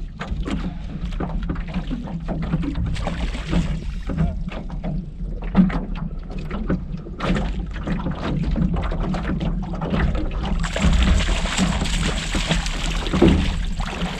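Scattered knocks and clicks of tackle and hull in a rowboat while a hooked pike is brought in, over a low rumble. A louder, steady rushing noise comes in for the last few seconds.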